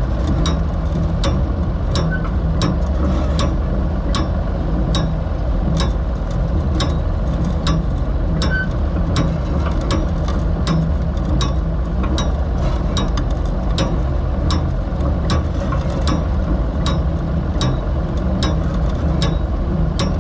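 Ford 3000 tractor engine running steadily, with an even mechanical clicking a little under twice a second over it.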